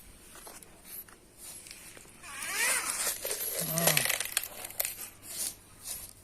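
Irregular scraping and rustling with sharp clicks. From about two and a half seconds in comes a louder wavering call lasting about a second and a half, ending in a short falling low note.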